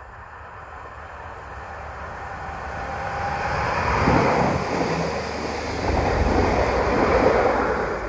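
Greater Anglia Class 755 bi-mode multiple unit passing close below, its running noise building as it approaches, loudest about four seconds in and again near the end as the rest of the train goes by.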